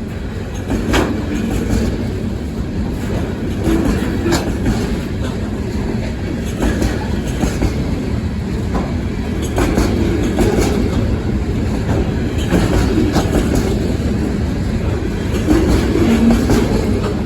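Freight cars of a long local train rolling past at about 30 to 40 mph: a steady low rumble with wheels clacking and knocking at irregular intervals.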